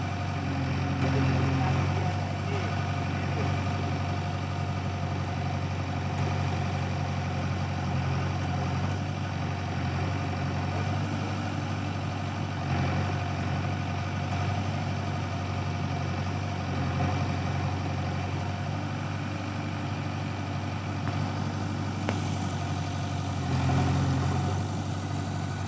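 Tractor diesel engine running steadily near idle, picking up briefly twice, about a second in and near the end.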